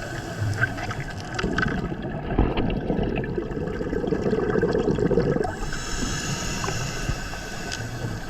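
Scuba diver breathing through a regulator underwater: a rush of exhaled bubbles burbling for about four seconds, then a higher, quieter hiss.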